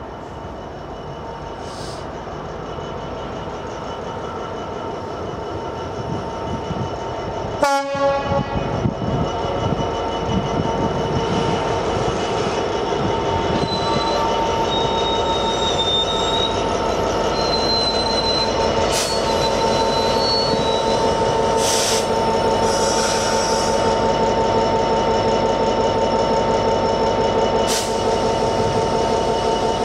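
Freightliner Class 66 diesel-electric locomotive, with its two-stroke V12 engine, running as it hauls a container train slowly past, growing louder as it draws level. A short sharp tone comes about eight seconds in. From about ten seconds on there is a steady squeal from the train's wheels on the rails, with occasional clanks.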